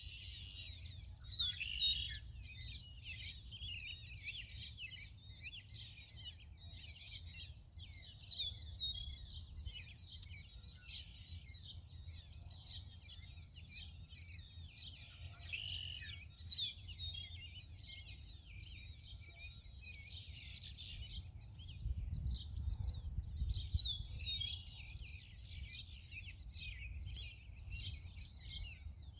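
A colony of purple martins calling, a continuous overlapping chatter of chirps and gurgling warbles. A low rumble runs underneath, heavier about two-thirds of the way in.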